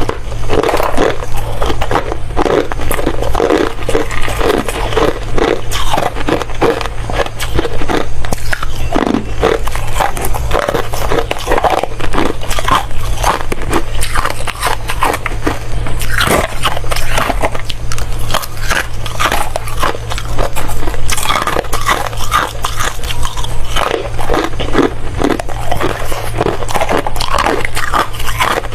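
Ice being bitten and chewed close to the microphone: dense, irregular crunching and crackling that goes on throughout, over a steady low hum.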